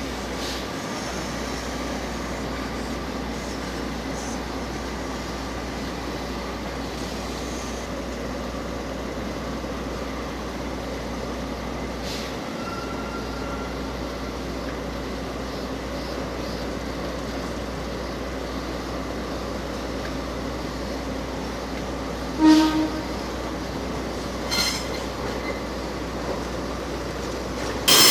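Freight train in a station yard: a steady, even running noise, with a short sharp tonal sound about two-thirds of the way through and a smaller one shortly after. Louder rail noise starts suddenly at the very end.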